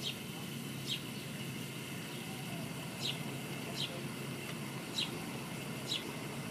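A bird calling: a short, high, falling chirp repeated six times, roughly once a second in loose pairs, over a steady low background rumble.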